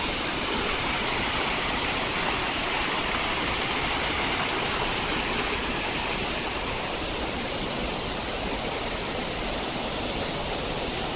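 Steady rushing of water in a mountain gorge, where a clear stream runs over rocks and falls.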